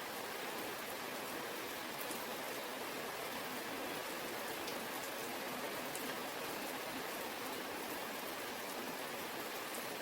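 Heavy rain falling steadily, a constant hiss with a few sharp drop ticks.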